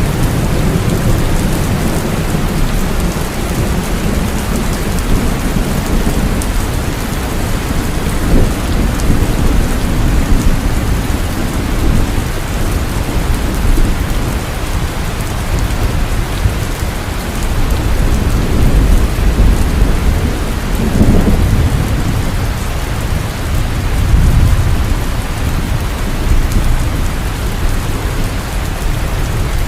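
Heavy rain falling steadily in a thunderstorm, with low rolling thunder rumbling underneath and swelling at times, notably around two-thirds of the way in.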